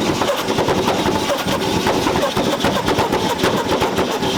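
Car engine held on a two-step launch limiter, the exhaust firing off a rapid, unbroken string of loud pops and bangs.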